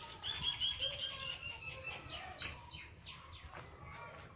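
Small birds chirping: a quick run of short high notes in the first second, then several chirps that fall in pitch.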